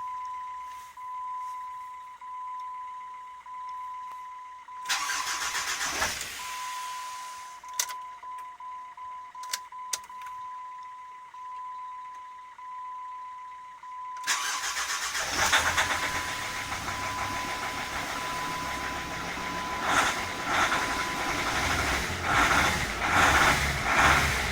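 A warning chime rings about once a second. About five seconds in, the starter cranks the Jeep Grand Cherokee's 2.7 CRD five-cylinder common-rail diesel briefly without it catching, and a few clicks follow. About fourteen seconds in, it cranks again, the engine catches and runs roughly and unevenly: a hard cold start.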